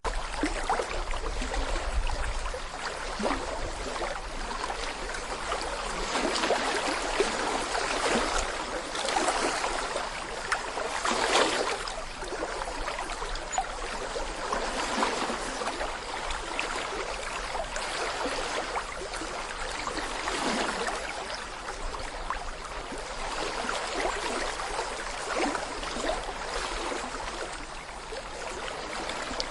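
Shallow brook babbling over stones: a steady rush of water with many small splashes and gurgles, swelling now and then.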